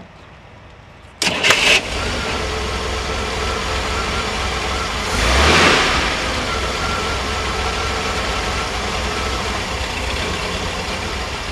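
1966 Chevrolet Corvair's air-cooled flat-six cranked with a remote starter switch and catching about a second in, then running, with a brief rev in the middle. The faulty part has been put back on, so this is the rough, intermittent running that was making the car stall.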